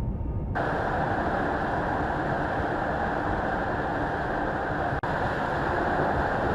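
A car driving, heard as a steady rush of tyre and wind noise with no distinct engine note. The sound briefly drops out about five seconds in, then carries on the same.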